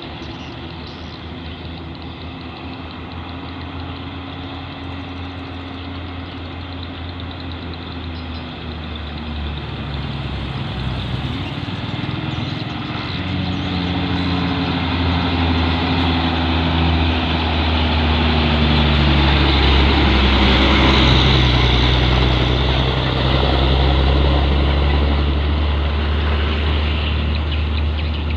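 Heavy diesel truck engine running, a steady low drone that grows gradually louder over about twenty seconds and then holds.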